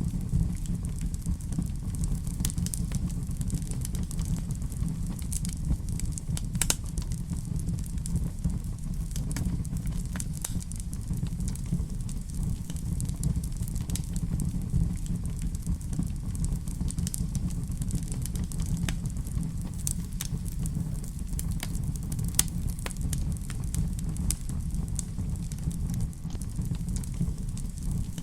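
Wood fire crackling in a fireplace: a steady low rumble with frequent sharp pops and snaps.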